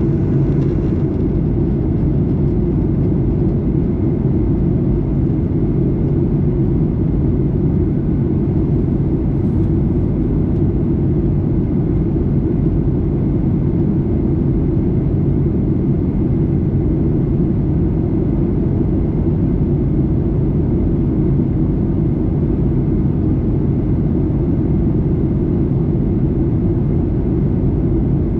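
Steady low drone of a Boeing 737-800 in flight, heard inside the passenger cabin: engine and airflow noise holding at an even level.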